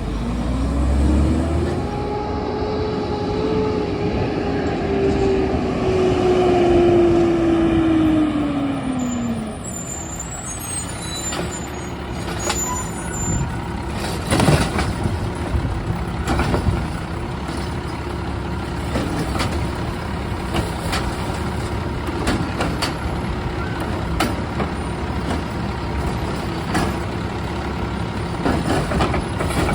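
Garbage truck engine revving up, holding, then slowly winding back down over about nine seconds. It then runs on steadily while a series of sharp knocks and clanks sound, most of them from about twelve seconds in.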